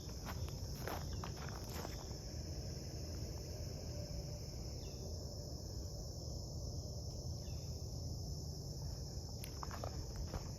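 A steady, high-pitched drone of insects, with footsteps crunching on the dry creek bed for the first couple of seconds and again near the end.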